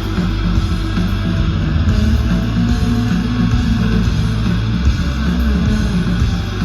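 Live rock band playing, guitar to the fore over a bass line that steps from note to note.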